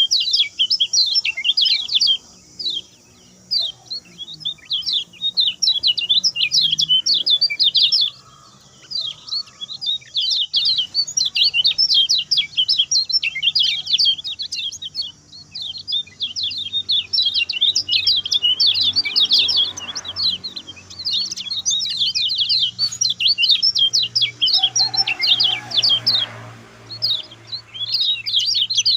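Lemon-bellied white-eye (kecial kuning) singing its fast, short-phrased 'speed pendek' song: dense runs of rapid high chirps, broken by brief pauses about two seconds in and again about eight seconds in.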